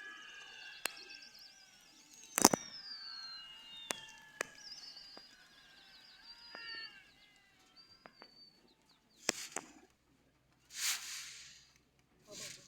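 Small birds chirping and whistling, with many short calls that slide in pitch, over a few sharp clicks. The loudest click comes about two and a half seconds in. Three brief hissing bursts follow near the end.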